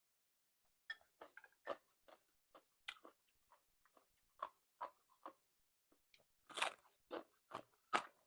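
A person chewing a mouthful of green papaya salad with octopus close to the microphone: a run of short crunches, about two a second, starting about a second in.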